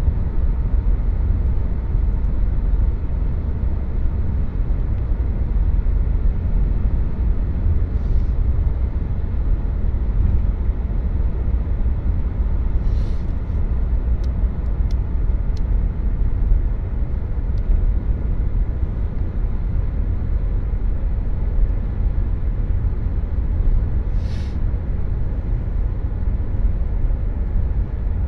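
Steady low rumble of engine and road noise heard inside the cabin of a 2014 Chevrolet Cruze Diesel driving along at a constant pace. A few brief hissing swishes pass over it.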